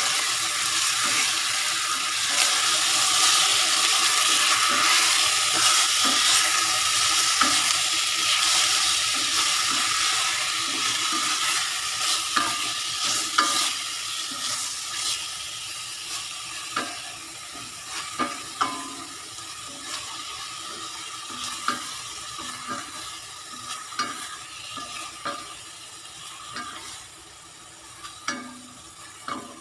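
Beef chunks with onion and garlic sizzling in oil in a heavy black pot, stirred with a wooden spatula that scrapes and knocks against the pot. The sizzle fades steadily, leaving the spatula's knocks more distinct near the end.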